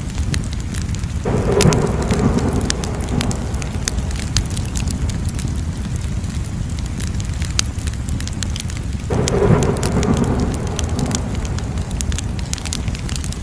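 Wood fire crackling, with frequent sharp pops and snaps over a steady low rumble. Twice, about a second in and again about nine seconds in, a louder rushing swell comes in suddenly and dies away over a couple of seconds.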